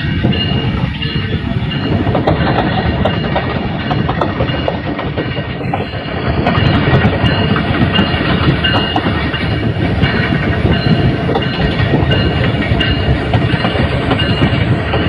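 Locomotive running along the track: a loud, steady rumble of steel wheels on the rails, with sharp knocks as the wheels cross the rail joints.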